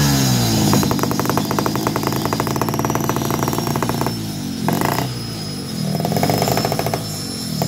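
Two-stroke motorcycle with a round expansion-chamber exhaust, revved for a sound check. As the revs fall, it settles into a rapid staccato crackle of firing pulses (the "ngerepek" chamber sound), then takes a few short throttle blips.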